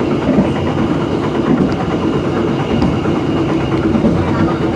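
Passenger train running on the rails, heard from aboard: a steady rumble of wheels and track with a constant low hum.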